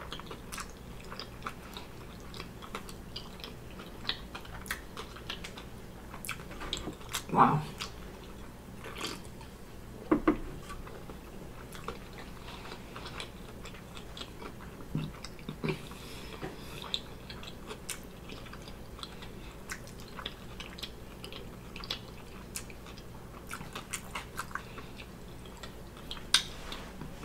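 Close-up chewing of a mouthful of BBQ bacon burger: steady small wet mouth clicks, with a few brief louder sounds scattered among them.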